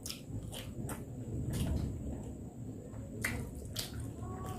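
Close-miked chewing of a mouthful of rice and fried crablets, with a few sharp clicks and crunches scattered through it.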